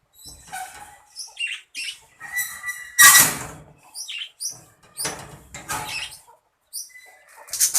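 A flock of budgerigars chirping and squawking in many short, high calls, with bursts of wing flapping or rustling; the loudest comes about three seconds in.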